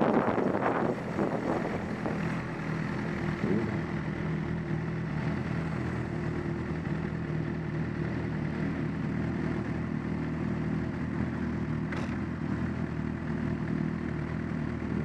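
Inline-four sport motorcycle engine idling steadily, after the wind rush of riding dies away in the first second or two. There is a single brief click about twelve seconds in.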